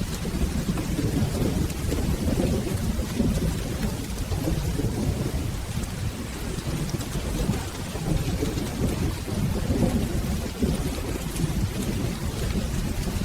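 Steady rain with a continuous low rumble of rolling thunder that swells and ebbs.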